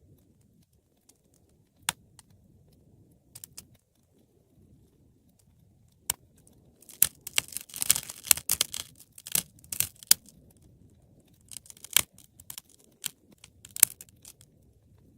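Wood fire burning in a fireplace: a faint low rumble of flames with scattered sharp pops, then a dense run of crackling about halfway through, followed by a few more loud pops.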